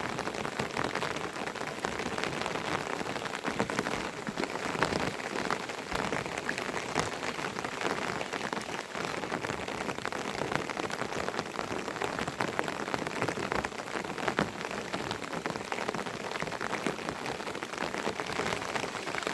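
Steady rain falling, with many separate drops heard as quick ticks over an even hiss.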